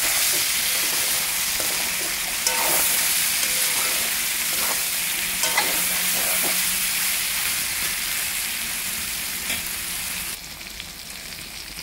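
Pork and potato pieces sizzling in hot oil in a metal kadai, with a steel spoon scraping and clinking against the pan every second or two as they are stirred. The sizzle drops noticeably quieter near the end.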